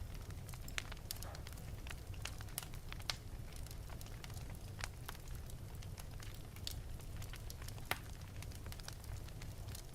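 Wood fire burning in an open fireplace, crackling with irregular sharp pops, the loudest about three and eight seconds in, over a steady low rumble of the flames.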